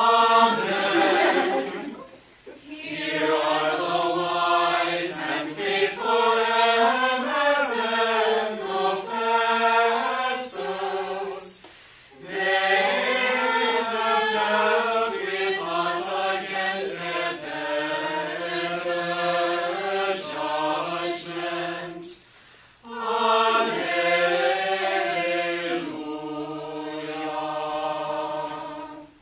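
Small unaccompanied choir singing plainchant together, in three long sung phrases with short breaths between them.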